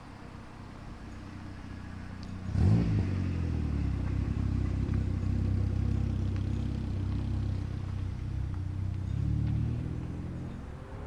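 Car engine that comes in sharply about two and a half seconds in with a quick rise in pitch, then runs steadily and eases off near the end.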